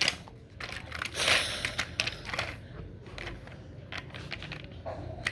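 Light clicks and clattering of small hard objects being handled, over a faint steady low hum.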